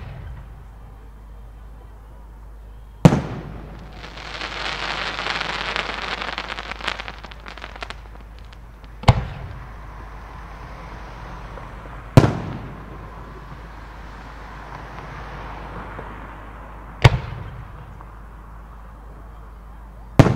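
Professional aerial firework shells bursting: about six sharp bangs a few seconds apart. After one bang comes a long hiss of about four seconds with scattered crackles, and a softer fizzing later fades out.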